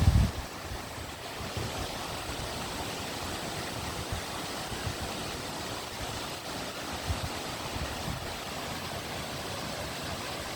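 Steady rush of flowing water, with a brief low rumble right at the start.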